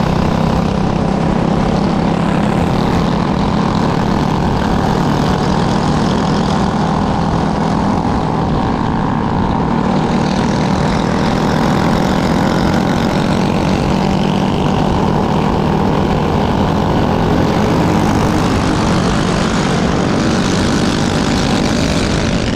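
Small propeller engine of a light aircraft running steadily at constant power, with a heavy rush of wind over it.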